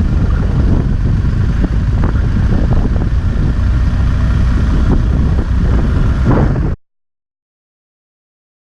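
Motorcycle riding at speed: engine drone mixed with heavy wind rumble on the microphone. It cuts off abruptly about seven seconds in, leaving silence.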